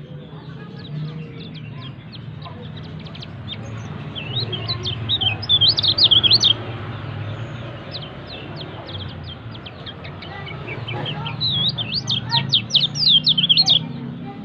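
White-eye (pleci dakun) singing in two long runs of rapid, high chirping twitters, about four seconds in and again about eleven seconds in, with scattered single chirps between.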